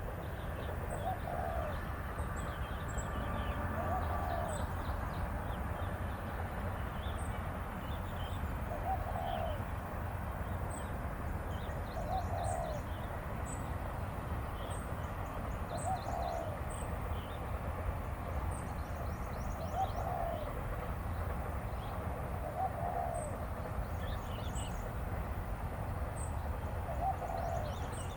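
Wild birds calling: a short, low call repeated every three to four seconds, with scattered high, thin chirps from other birds, over a steady low rumble.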